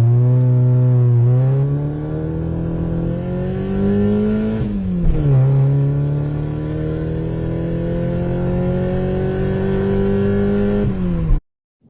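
Car engine accelerating: its pitch climbs steadily, drops sharply once about four and a half seconds in as it shifts up a gear, then climbs again before easing off and cutting off abruptly near the end.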